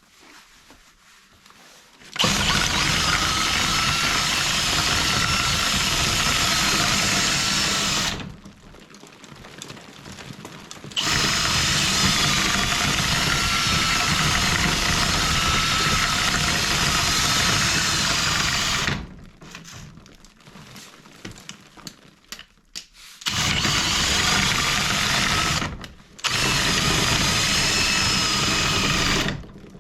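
Power drill spinning a rotary chimney-sweeping brush, run in four stretches of a few seconds each, the last two separated by a brief pause; its pitch wavers a little as the brush works against the nest.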